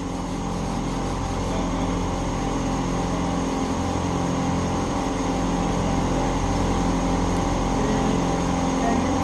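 Steady hum of a tyre-shop machine's motor running, with a slow, regular pulsing.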